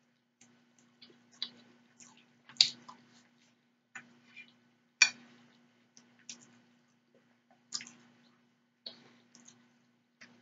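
Close-miked eating sounds of a person chewing soft grits: a string of short, sharp wet mouth clicks and lip smacks about once a second. The loudest come about two and a half and five seconds in.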